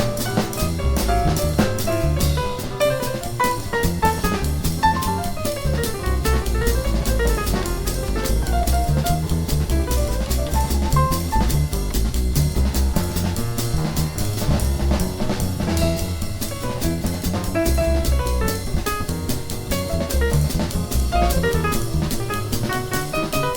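Jazz piano trio playing: acoustic piano runs quick melodic lines over double bass and a drum kit keeping time on the cymbals, at a brisk, steady tempo.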